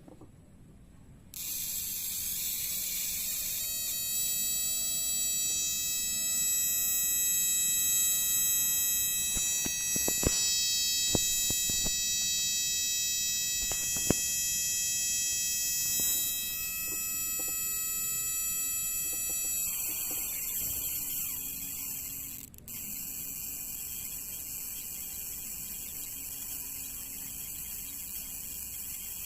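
High-pitched electrical buzz from a spark-plug ignition tester firing, steady with several fixed tones. A few sharp clicks come about a third of the way in, and the buzz changes about two-thirds of the way through.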